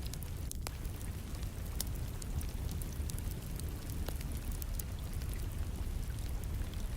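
Wood fire crackling in a fireplace, with scattered sharp pops, a couple of them louder, near the start and about four seconds in. Underneath runs a steady low rush of rain.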